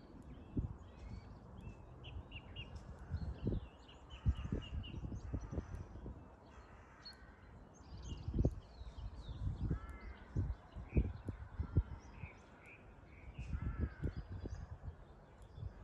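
Dawn birdsong: small birds chirping, with a crow cawing in two short runs of calls about ten and fourteen seconds in. Gusts of wind buffet the microphone.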